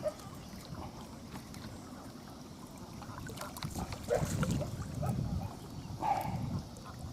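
Strong wind buffeting the microphone in uneven gusts, with choppy water lapping and a few faint clicks.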